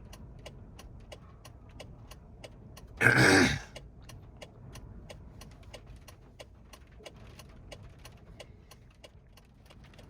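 Steady rapid ticking of a car's turn-signal flasher, about three ticks a second, inside the car's cabin. A brief loud burst cuts across it about three seconds in.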